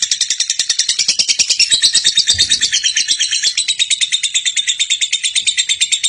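Lovebird's long 'ngekek' chatter: a rapid, unbroken run of shrill notes, about a dozen a second.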